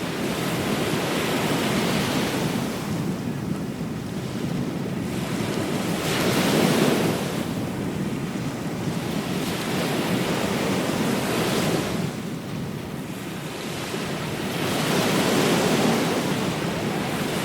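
Ocean surf breaking on a beach, the wash swelling and falling back about every four to five seconds, with wind noise on the microphone.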